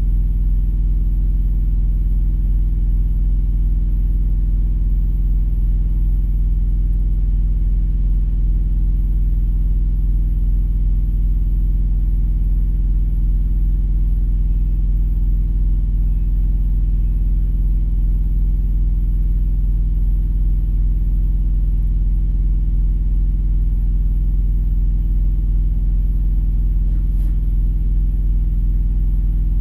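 Steady low rumble of an idling vehicle engine, heard from inside the cab, with an even hum that does not change.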